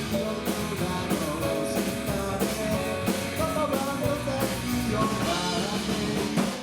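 Live rock band playing a song, with guitar and drums.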